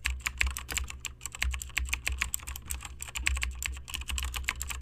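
Computer keyboard typing: a quick, irregular run of key clicks, several a second, over a low steady hum.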